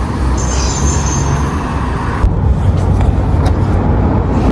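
Steady low rumble of road vehicle noise, with a faint high whine in the first second or so. The sound changes abruptly about two seconds in.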